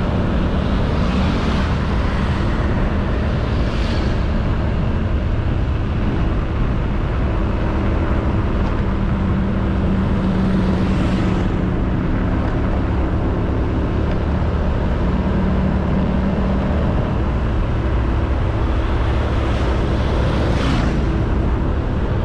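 Honda Beat 110cc single-cylinder scooter running steadily at cruising speed, heard from the rider's own camera with heavy wind and road rush. Other vehicles swish past several times.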